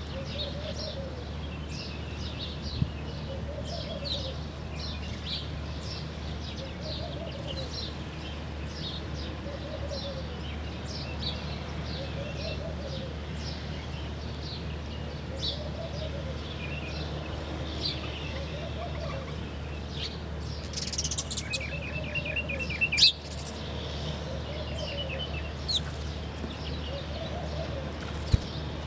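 Morning birdsong: several birds chirping with short high notes, over a low call that repeats about every two and a half seconds. A bird gives a fast trill a little past two-thirds of the way through.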